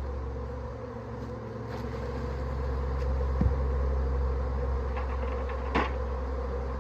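A honeybee swarm buzzing, a steady low drone, with a short knock about halfway through and another near the end.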